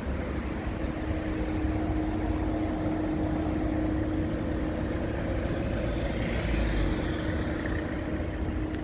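A car engine running steadily under a constant hum and low rumble. A brief whooshing sweep passes through about six to seven seconds in.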